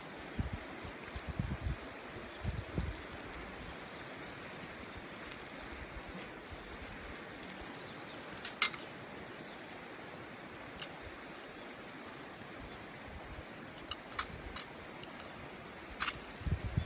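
A river flowing steadily, with wind buffeting the microphone in the first few seconds. A few sharp clicks stand out, one about halfway through and a cluster near the end.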